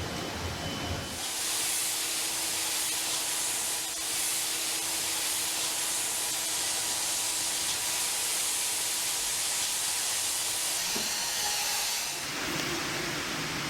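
A steady, high-pitched hiss, like air or steam escaping under pressure. It starts suddenly about a second in and stops about twelve seconds in.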